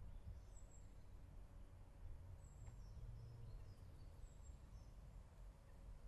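Near silence: a faint low outdoor rumble, with faint short high bird chirps scattered through it, about half a dozen.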